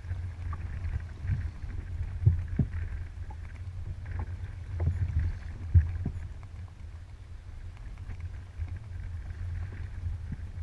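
Kayak on open water: water sloshing and splashing around the hull, with a few short knocks over a steady low rumble.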